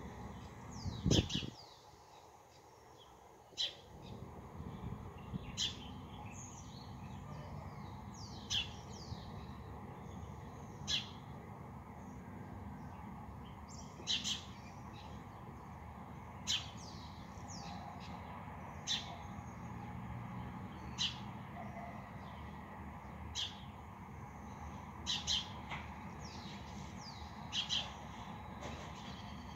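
Small birds calling at dawn: a sharp, falling chirp repeats about every two and a half seconds, with softer twittering between, over a low steady background rumble. A brief thump about a second in is the loudest sound.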